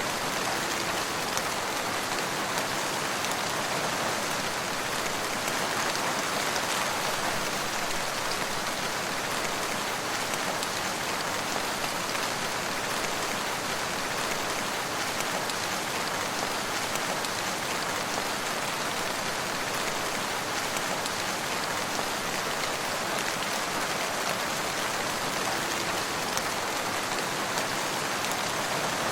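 Steady rain falling, an even hiss with dense patter of drops on surfaces.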